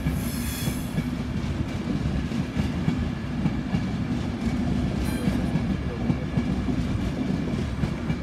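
A passenger train rolling past at close range, its wheels rumbling steadily and clicking over the rail joints. A brief high squeal comes near the start and again about five seconds in.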